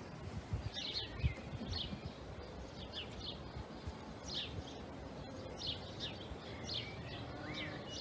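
Small birds chirping: short high notes scattered through, every second or so, over faint knocks and rustling of cardboard egg trays being handled.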